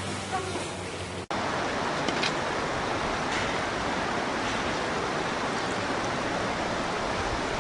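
A steady rushing noise, beginning after an abrupt cut about a second in.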